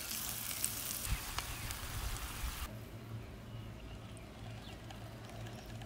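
Sliced chillies and garlic sizzling in hot oil in a frying pan as they are stirred, a steady hiss that stops abruptly a little under halfway through. Afterwards only a faint background with a few light ticks.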